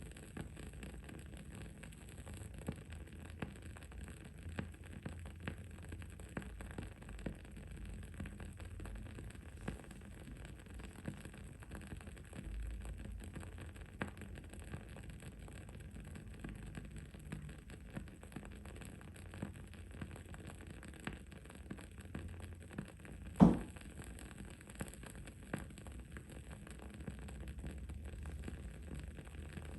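Wood-wick candle crackling: a steady run of small, soft pops over a low background noise, with one much louder pop about three-quarters of the way in.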